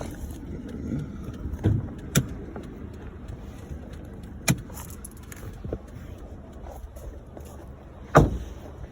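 Sharp clicks and knocks from a car's hood release and latch while the hood is opened, with a louder metallic thump near the end. A steady low rumble runs underneath, from the car's Ecotec four-cylinder idling.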